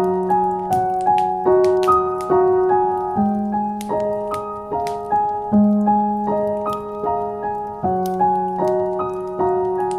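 Solo piano playing a slow piece of repeating broken chords, a new note about every half second over held bass notes that change a few times. Faint fireplace crackles sound behind it.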